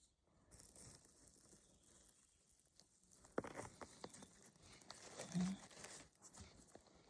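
Faint rustling and crunching in dry leaf litter and twigs as a mushroom picker moves about, with a cluster of sharp crackles about three and a half seconds in and a short low hum about five and a half seconds in.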